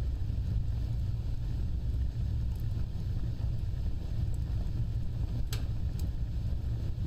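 A fire burning with a steady low roar, with a few sharp crackles and pops; the loudest pop comes about five and a half seconds in.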